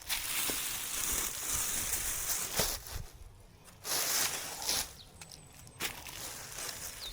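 Dry leaves and twigs crunching and rustling underfoot and in the hands, in irregular bursts with several sharp onsets.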